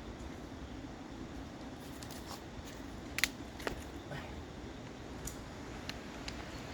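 Quiet outdoor background with a few faint, sharp clicks scattered through it, the loudest about three seconds in.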